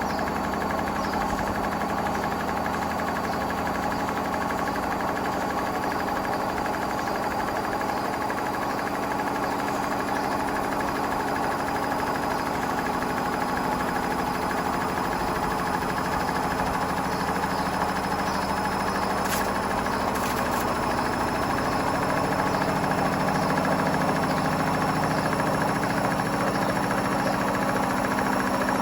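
Hotpoint WMFUG742 washing machine running steadily, most likely spinning, with a thin motor whine that slowly rises in pitch. It gets a little louder about three-quarters of the way through.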